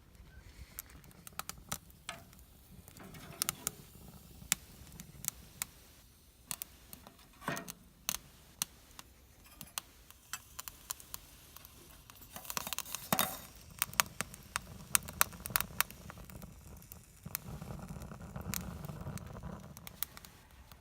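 Twig fire burning in a Swiss Volcano stove, crackling with irregular sharp pops, most dense about two-thirds of the way through.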